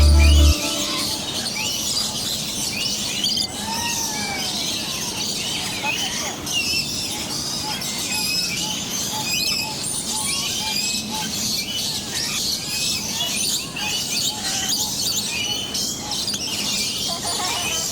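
Many birds calling at once: a dense, continuous run of short chirps and gliding whistles over a steady background hiss. A snatch of music cuts off about half a second in.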